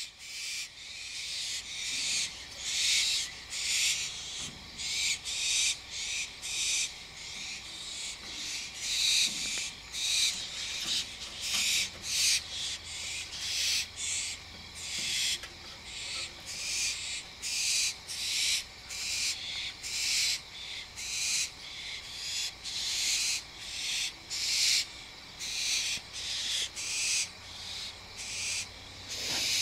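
An adult and a juvenile barn owl making a racket: a long run of harsh, hissing screeches, a little more than one a second.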